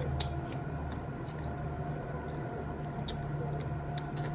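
Wet chewing and lip-smacking of people eating balut, with scattered small mouth clicks over a steady low hum.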